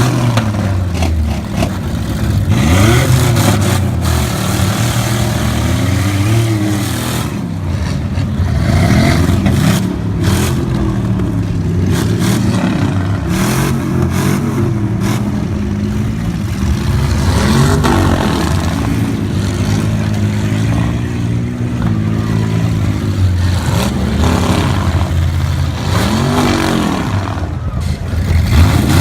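Truck engines running loud, revved up and let back down again and again, the pitch rising and falling several times over a steady low drone.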